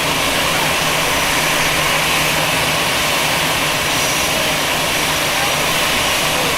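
Jet airplane's engines running close by as it arrives at the gate: a loud, steady rush of noise with a thin high whine on top.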